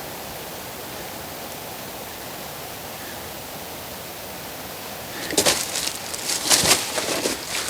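A steady hiss, then from about five seconds in a quick run of sharp clacks and cracks, the loudest sounds here.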